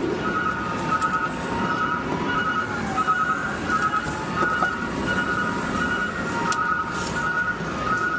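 Garbage truck's backup alarm beeping in a steady repeating pattern, about two beeps a second, over the rumble of the truck's running engine.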